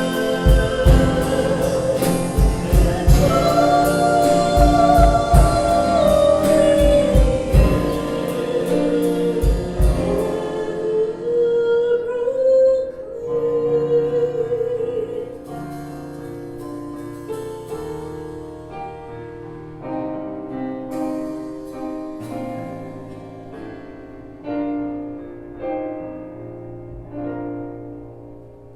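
Worship band music: a voice singing over drums and instruments, then the drums drop out about ten seconds in and the song winds down on soft, sustained notes, fading toward the end.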